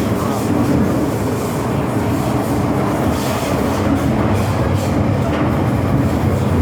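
MTR M-Train electric multiple unit running along the line: steady rolling rail noise with a low steady hum.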